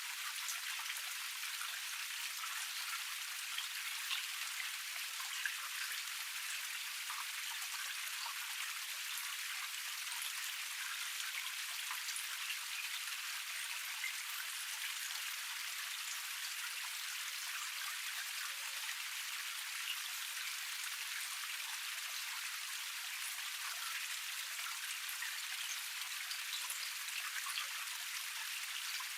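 Small forest waterfall cascade: water splashing steadily over rocks, an even hiss dotted with many small droplet splashes and no low rumble.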